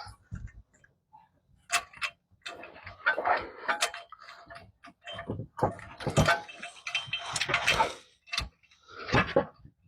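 Ratchet wrench clicking in short irregular runs, with knocks of metal hand tools, as new spark plugs are screwed into the engine.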